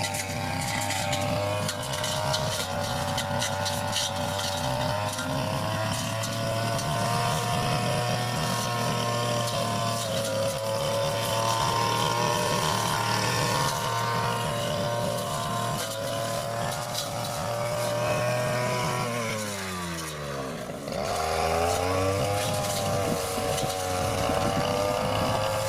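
Backpack brush cutter's small petrol engine running steadily at high speed. About three-quarters of the way through, the throttle is let off so the engine drops toward idle, then it revs back up.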